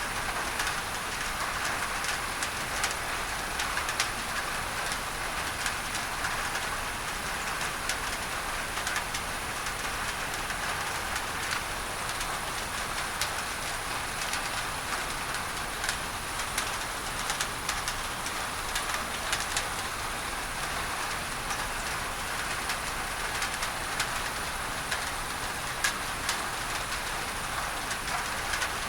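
Steady heavy rain on a tin roof, with many sharp individual drop hits, blended with a constant masking noise.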